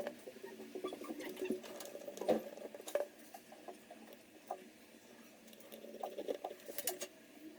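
Faint, scattered ticks and light scratching of a small screwdriver driving the screws that hold a laptop battery in place, with a quieter stretch midway.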